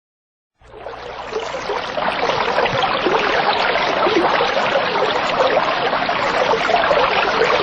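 Running water, a steady splashing trickle that fades in after a moment of silence and then holds steady.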